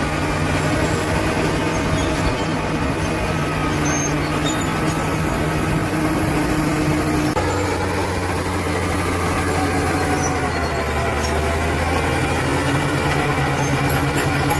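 Bulldozer's diesel engine running steadily. About halfway through its note drops lower for several seconds, then rises back to the higher speed near the end.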